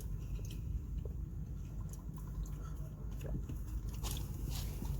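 A person chewing and biting food close to the microphone, with faint scattered crunchy clicks over a steady low hum.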